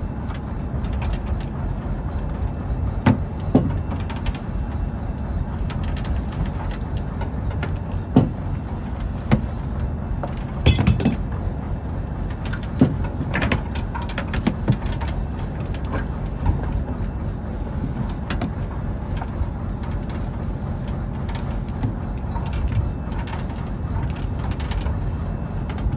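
Fishing boat's engine running steadily as a low rumble, with scattered knocks and clatters.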